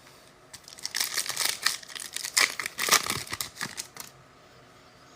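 Foil wrapper of a pack of football trading cards being torn open and crinkled, an irregular crackling lasting about three seconds.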